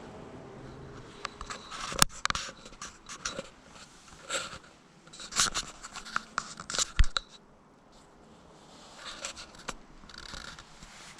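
Irregular scratching and rustling close to the microphone, with sharp clicks about two seconds and seven seconds in.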